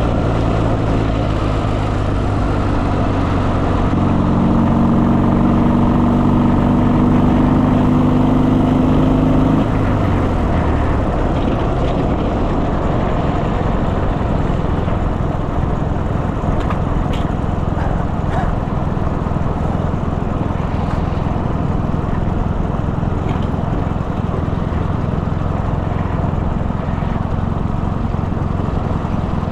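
Motorcycle engine running at steady revs with wind noise; about ten seconds in the throttle eases off, the engine note drops, and it carries on as a lower rumble under wind and road noise.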